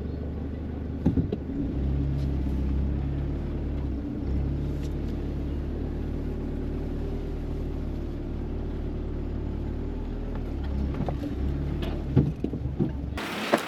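4x4 ute engine running at low speed as it crawls along a rutted off-road track, a steady low drone that shifts pitch slightly now and then. A few sharp knocks from the vehicle come about a second in and again near the end.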